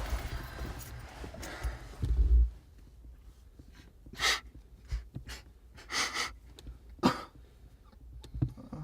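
A low thump about two seconds in, then a few short audible breaths spaced a second or two apart in a quiet room.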